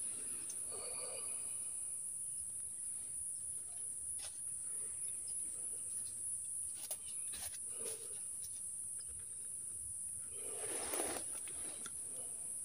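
Insects chirring in one steady high-pitched drone, with a few faint clicks and brief faint murmurs in the background.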